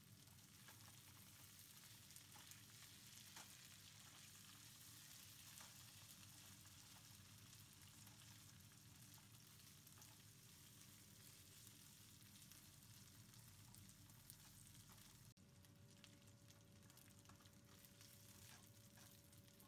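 Faint sizzling of diced potatoes frying in bacon grease in a nonstick skillet, with occasional light scrapes of a silicone spatula stirring them.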